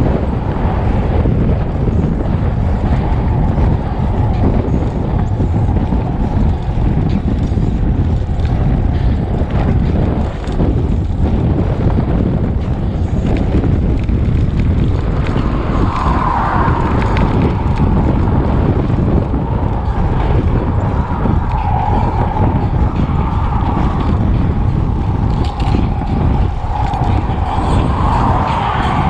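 Wind buffeting the microphone of a camera on a moving bicycle: a loud, steady low rumble. About halfway through, a wavering higher tone joins in over the rumble.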